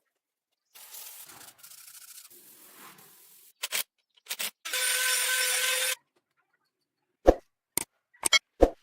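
Metal fabrication sounds in quick, cut-together bursts: a scraping, rasping noise, two short bursts, then about a second and a half of loud steady cutting with a whine in it. Near the end come five sharp knocks.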